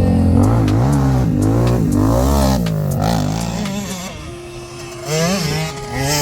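Quad (ATV) engine revving, its pitch rising and falling over and over. About four seconds in the deep engine sound drops away, leaving a lighter, thinner sound.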